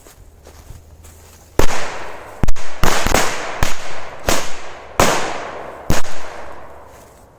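Small firecrackers going off one after another: about eight sharp bangs at irregular intervals, starting about one and a half seconds in, each trailing off briefly.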